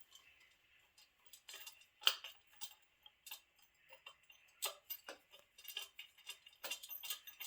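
Scattered, irregular light metallic clicks and clinks of an electric exhaust cutout's bolts, nuts and washers being hand-tightened on its flange.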